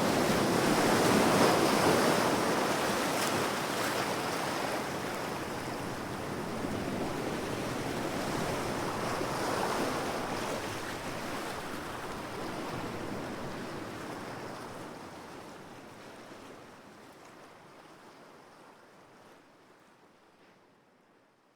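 Ocean surf washing in, swelling about a second in and again about halfway through, then fading away gradually toward the end.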